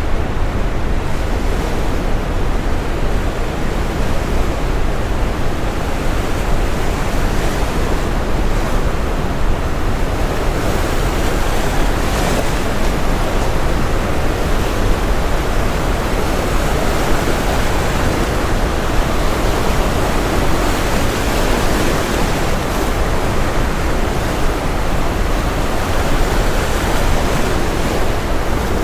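Brown noise layered with ocean waves breaking on a shore: a steady, deep rushing hiss, with the surf swelling louder and brighter through the middle and easing off near the end.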